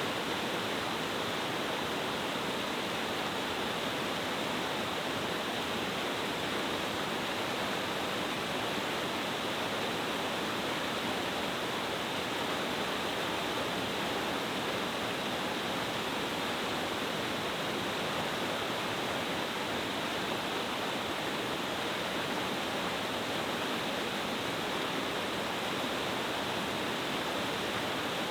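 Water of a multi-tiered cascading stream waterfall (Oshidori-kakushi Falls) rushing over the rocks: a steady, unbroken rush of falling water with no changes.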